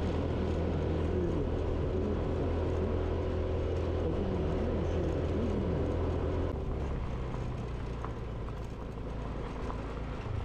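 Motorcycle engine running under way, with a steady low hum and wavering pitch; about six and a half seconds in the engine note drops and quietens as it comes off the throttle.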